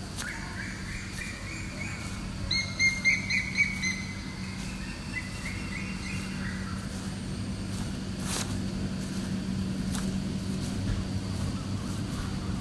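A bird calling in quick runs of short, high chirps, the loudest run about three seconds in, over a steady low hum.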